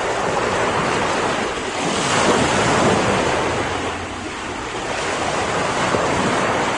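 Sea waves breaking and washing on a beach in a continuous rush, one wave swelling about two seconds in and falling back around four seconds.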